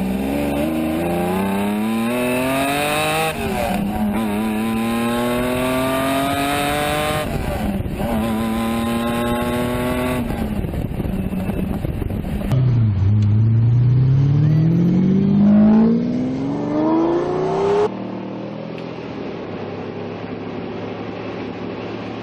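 Lamborghini Diablo V12 accelerating hard through the gears. Its pitch climbs and drops back at each shift, about 3, 7 and 10 seconds in. Then it makes one long rising pull that breaks off about 18 seconds in, and a quieter steady engine sound follows.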